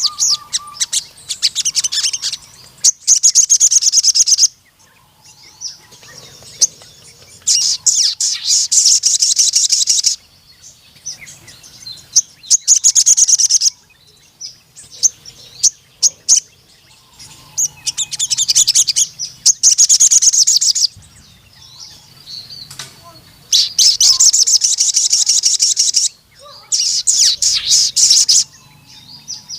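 Crimson sunbird (sogon) in full song: loud, rapid trills of high, quickly repeated notes, each about two seconds long, coming roughly every five seconds, with short scattered chirps in between.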